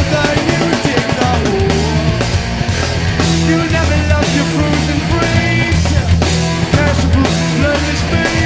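Loud live rock music from a band: electric guitars and bass over a steady drum beat.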